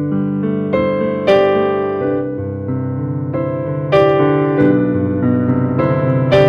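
Electric piano or keyboard playing gentle chords, a new chord or note struck about every half second. Louder accents come just over a second in and about four seconds in.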